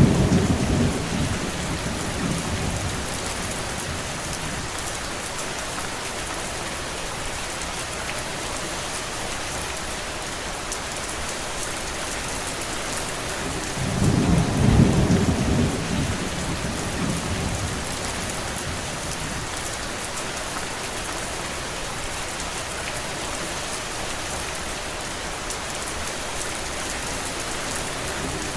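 Steady rain falling, an even hiss. A low rumble swells for a second or two at the start and again about halfway through.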